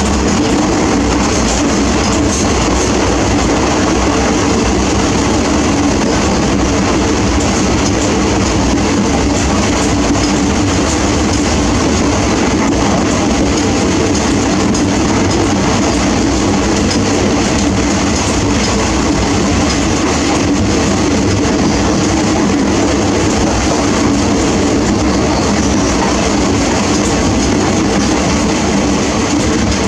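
Steady running noise of a Shramjeevi Superfast Express passenger coach travelling at speed, heard from inside the coach: wheels rumbling on the rails and the carriage rattling.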